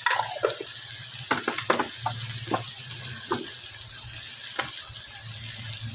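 Onions, tomatoes and green chillies sizzling in oil in a frying pan, with a wooden spoon knocking and scraping against the pan several times. A low steady hum sits underneath from about two seconds in.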